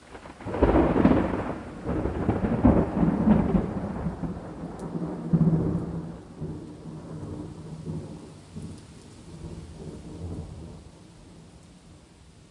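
A thunderclap breaks about half a second in and rolls on as a deep rumble with several loud swells, dying away over about ten seconds. Steady rain continues underneath.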